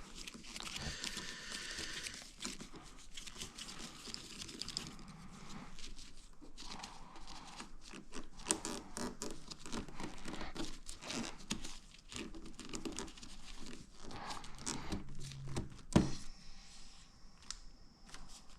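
Hand work at a motorcycle's fuel-tank fittings: irregular scraping, rustling and small clicks of a pick and fingers working at a plastic clip, with one sharp click about sixteen seconds in.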